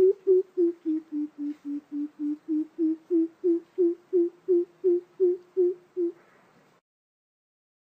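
Coucal calling: a steady series of about nineteen low hoots, about three a second, dipping slightly in pitch and then rising again, ending about six seconds in.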